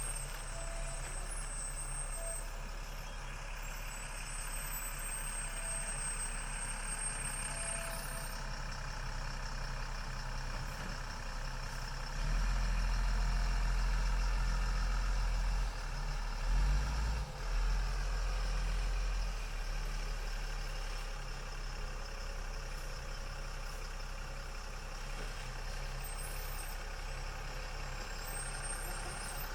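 Diesel engine of an M1079 LMTV military truck running steadily while driving off-road. For several seconds around the middle it swells into a louder, deeper rumble.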